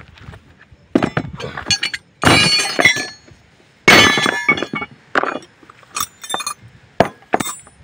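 Metal objects clinking and clattering: a series of sharp ringing knocks, with two longer jangling rattles about two and four seconds in, typical of tools or parts being handled and set down during a brake pad job.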